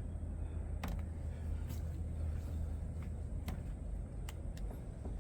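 Steady low background rumble with a few light, scattered clicks and taps, about one every half second to second.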